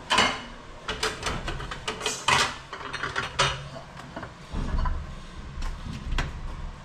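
Plates and serving dishes clinking and knocking together as food is dished out, a handful of sharp separate clatters spread over several seconds.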